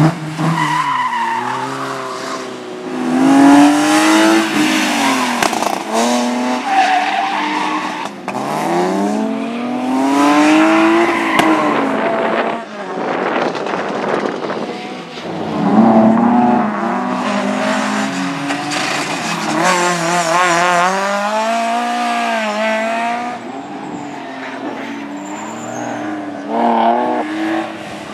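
Rally cars' engines revving hard, pitch climbing and dropping repeatedly through gear changes and lifts off the throttle, with tyres squealing and skidding.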